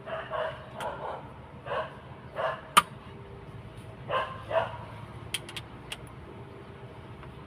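A dog barking several times in short pairs, with a few sharp clicks scattered among the barks, the loudest about a third of the way in.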